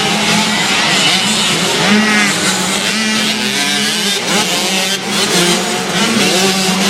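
Several motocross bikes' engines racing, rising and falling in pitch as the riders rev through the track, with one steady engine note underneath.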